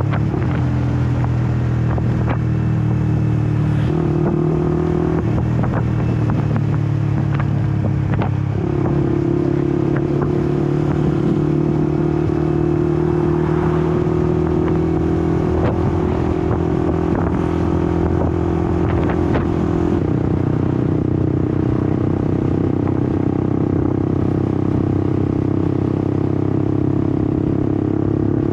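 Honda CBR150R's single-cylinder engine running under way. Its note steps up about four seconds in and again around eight seconds, then drops at about twenty seconds as engine speed changes.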